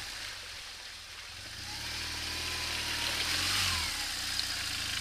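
BMW GS adventure motorcycle engine running at low speed as the bike works its way through a muddy rut; the revs pick up about two seconds in and ease off just before four seconds.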